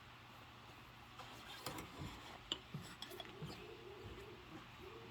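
Dishes being handled and scrubbed in rubber gloves: faint light clinks and knocks of dishware, one sharper clink about two and a half seconds in, with soft squeaky rubbing.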